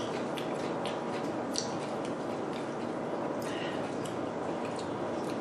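Close-miked eating: wet chewing and mouth clicks scattered over a steady hiss.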